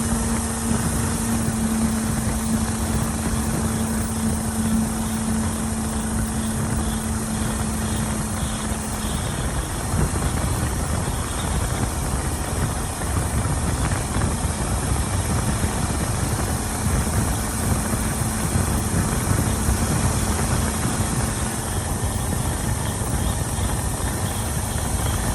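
Vehicle engine idling with a pulsating rattle over its steady rumble. A steady hum drops out about nine seconds in.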